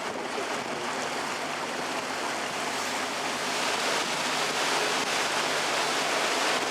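Canal tour boat under way: a steady rush of water and wind with a low, steady motor hum beneath, growing a little louder about three and a half seconds in.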